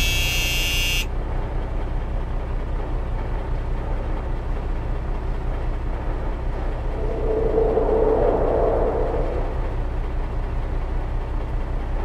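Steady low rumble like traffic or a running vehicle, with a hazy tone that swells and fades a little past the middle. A high ringing tail of music cuts off about a second in.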